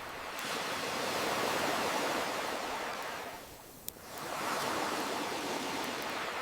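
Ocean waves washing in: two slow surges of surf that swell and ebb, with a single sharp campfire pop about two-thirds of the way through.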